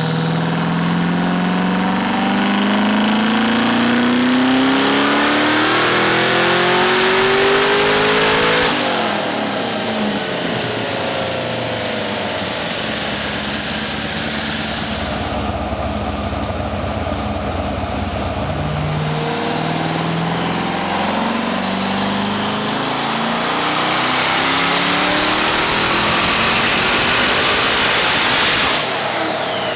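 Twin-turbo Corvette Z06's 7.0-litre LS7 V8 pulled up through the revs under load on a chassis dyno, twice. Each time the engine note climbs steadily in pitch for several seconds and then cuts off suddenly as the throttle closes. A high turbo whistle rises with each pull and slides back down after it.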